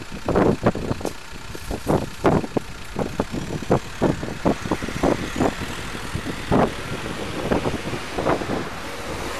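Irregular clacks and thumps of wheels rolling over the rails at a level crossing, about two or three a second and thinning out toward the end, over a steady rumble.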